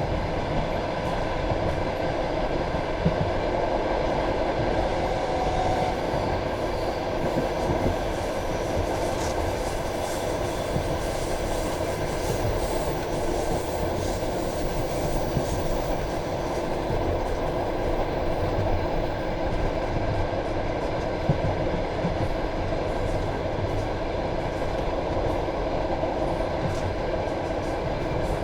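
Passenger train carriage running at speed, heard from inside by the window: a steady rumble of wheels on rail with scattered light clicks.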